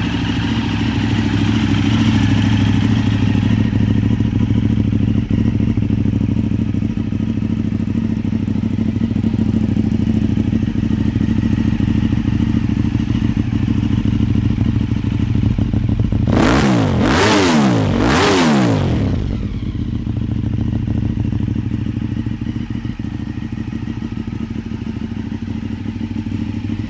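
2010 Ducati 848's 849 cc L-twin engine idling steadily. A bit past halfway through it is blipped three times in quick succession, each rev rising and falling in pitch, and then it settles back to idle.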